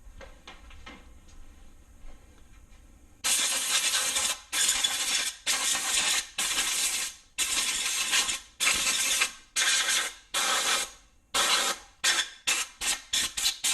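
Compressed-air blow gun blowing off an LS crankshaft in a string of loud, short hissing blasts. The blasts start about three seconds in, about fifteen of them, getting shorter and quicker toward the end.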